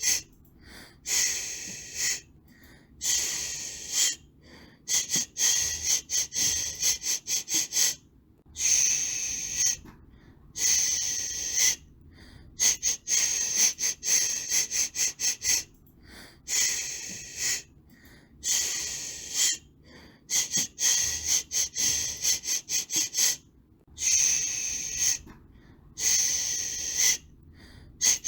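A person shushing a baby: repeated hissed "shhh" sounds, some held for about a second and others in quick runs of short strokes, with brief gaps between them.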